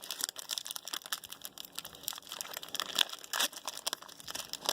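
Foil wrappers of football trading-card packs being torn open and crinkled, a dense run of crackles and rustling.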